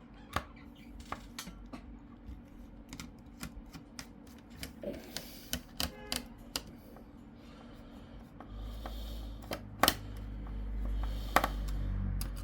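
Small scattered clicks and taps of a screwdriver working at the screws of a laptop's heatsink and fan, metal on metal and plastic. A low steady hum comes in about two-thirds of the way through.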